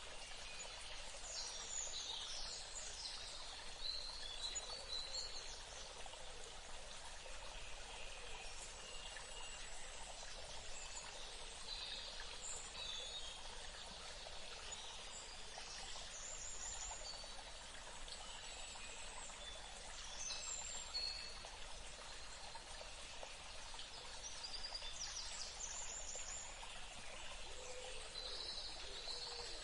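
Steady running water, like a stream, with birds chirping and calling every few seconds over it.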